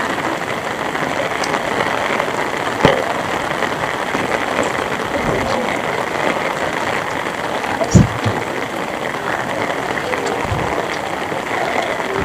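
Heavy rain falling steadily, a dense even hiss, with two sharp louder taps of water or drips striking something about three and eight seconds in.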